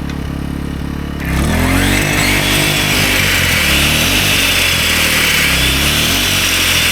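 An AiVolt 1600 W inverter generator's engine hums steadily, then about a second in a 15-amp corded circular saw switches on and spins up with a rising whine. The generator's engine pitch swings up and down as it strains under the load, too much for it, which sets off its overload light.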